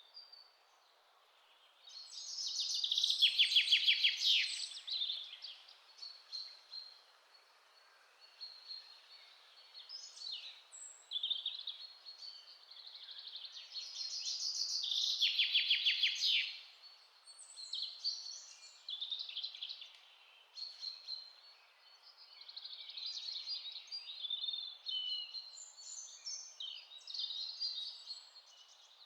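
Several wild songbirds chirping and calling, with two louder phrases of fast repeated notes about two seconds in and again around thirteen seconds, over a faint steady background hiss.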